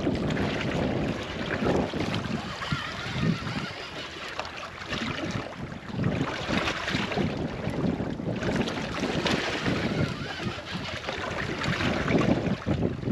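Wind buffeting the microphone over water slapping against the hull of a small fishing boat, rising and falling in gusts.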